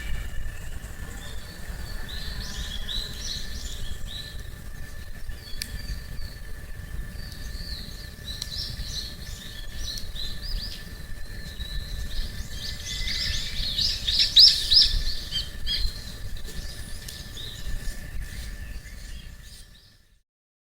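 Small birds chirping and singing in short phrases, loudest about two-thirds of the way in, over a low steady rumble. The sound fades out just before the end.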